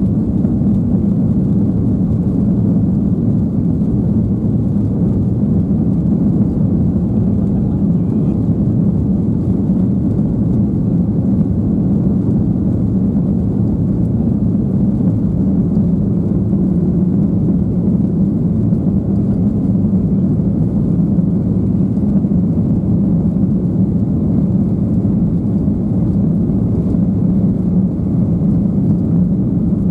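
Steady, loud cabin noise inside a Boeing 737-800 airliner: an even low hum from the engines and air systems that holds at one level.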